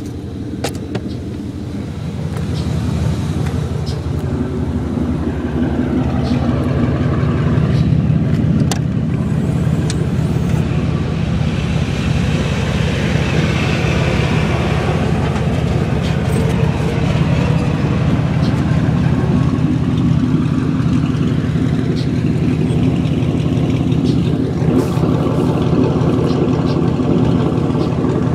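2002 Ford Mustang GT's 4.6-litre V8 running through a BBK off-road X-pipe with the mufflers removed and replaced by straight pipe, very loud. It grows louder over the first eight seconds or so, then holds a steady deep tone.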